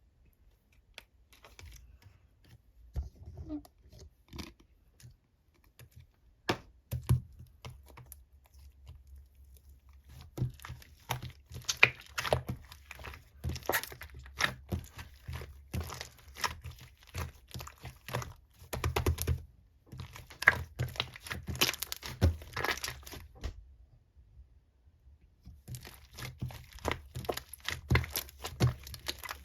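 Slime being squished, pulled and pressed by hand, making sticky crackles, clicks and pops. The crackles are sparse at first and grow dense about ten seconds in, with a short pause near the end.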